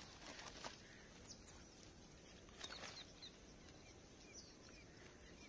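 Faint bird chirps, short falling notes repeated again and again, with brief rustles of a woven plastic sack being shaken about half a second in and again about three seconds in.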